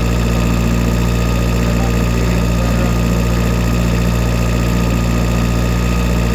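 Tractor engine running steadily at a constant speed, with no change in pitch or loudness.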